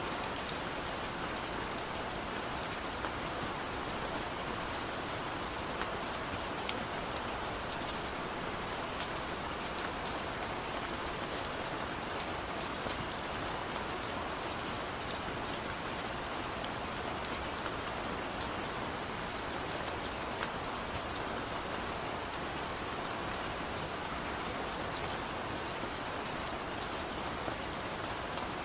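Steady rain falling, an even hiss scattered with many small sharp drop ticks.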